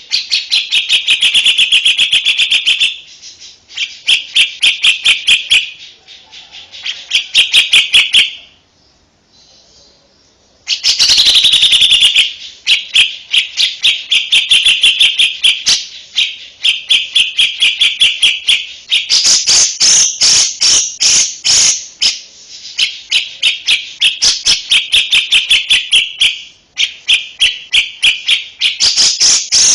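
Recorded songbird song: long runs of fast, evenly repeated high chipping notes, broken by short pauses, with a near-quiet gap about nine seconds in.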